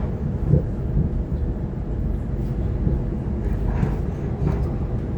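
Waratah electric train running along the track, heard from inside the carriage: a steady low rumble with a faint steady hum.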